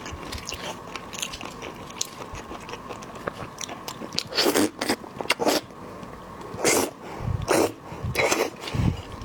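Close-miked eating of shrimp: small crackles and clicks of shell, then from about four seconds in a series of louder crunching bites and chewing.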